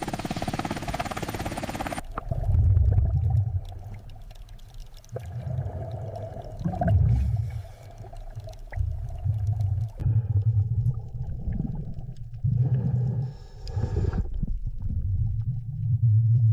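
Surf and wave hiss for the first two seconds, then underwater ambience: deep, muffled rumbles that swell and fade every second or so, with faint thin tones above them.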